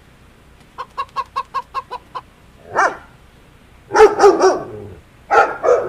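A hen clucking in a quick even run of about eight short clucks, then a golden retriever barking loudly in rapid volleys from about four seconds in.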